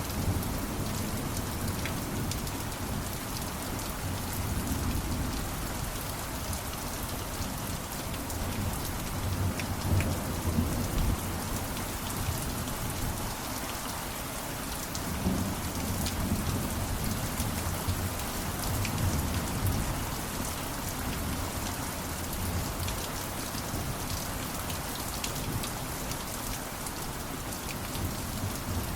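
Steady rain falling, with low rolls of thunder swelling about a third of the way in and again a little past the middle.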